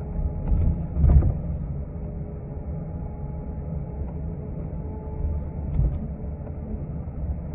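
Steady low rumble of a city transit bus in motion, heard from inside the passenger cabin, with a thump about a second in and a smaller one near six seconds.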